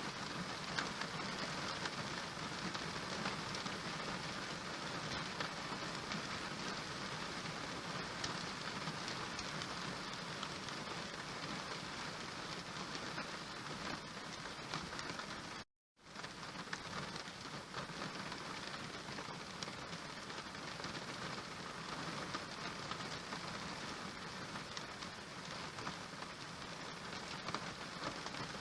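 Steady rain falling, a dense patter of drops. About halfway through, the sound cuts out completely for a split second and then resumes.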